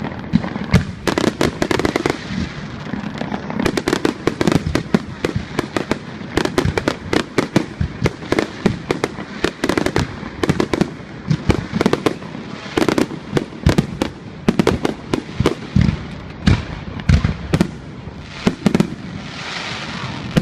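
Aerial fireworks going off in rapid succession: a dense string of sharp bangs and reports, several a second, over a continuous crackle.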